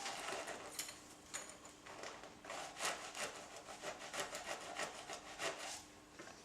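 A series of short, rough rubbing or scraping strokes from hand work on the parts, coming irregularly in bunches of several a second.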